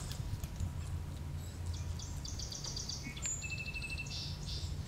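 Small birds calling: a fast trill of short high notes about two seconds in, then a second rapid trill with a thin steady whistle about a second later, over a steady low background rumble.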